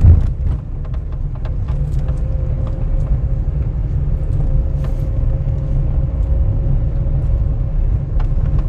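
Vehicle driving: a steady low rumble of engine and tyres with a faint steady hum, scattered light clicks, and a single thump just at the start.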